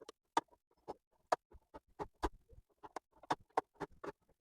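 Faint, sharp little clicks, about three or four a second at an uneven pace, from hand work with small tools on a circuit board.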